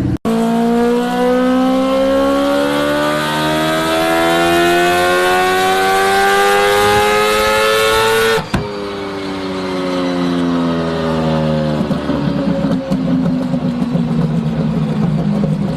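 Car engine accelerating, its pitch rising smoothly for about eight seconds, then cut off abruptly and falling away before settling into a lower, rougher running note.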